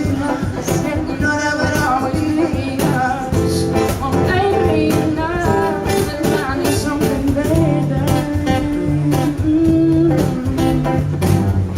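A live acoustic country song: a singer with vibrato over strummed acoustic guitar and a steady cajon beat.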